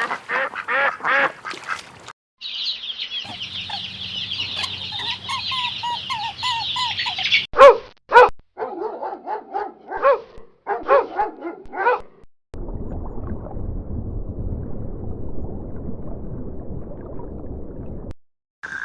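Geese honking in short repeated calls, with a stretch of dense higher-pitched flock calling, and two loud honks about eight seconds in. Near the end the calls give way to several seconds of low steady noise.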